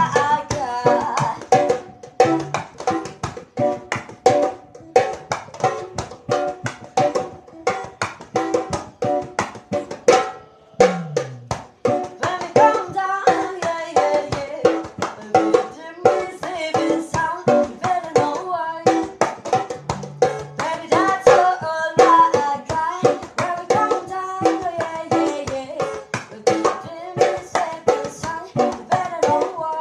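A small band playing: pitched instrument notes over a fast, busy beat of drums and percussion.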